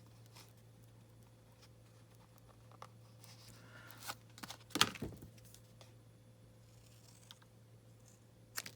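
Quiet handling of paper and craft tools on a tabletop: a few soft taps and rustles, with one sharper knock about five seconds in, over a faint steady electrical hum.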